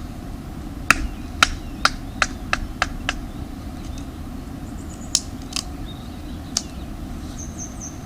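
Wood crackling and popping with sharp snaps, a quick run of about eight about a second in, then a few scattered ones, over a steady low rumble.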